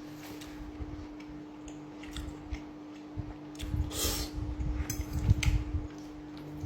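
A person eating mushroom risotto: soft, irregular chewing, with a few light clicks of cutlery against the plate and a short breath about four seconds in, over a faint steady hum.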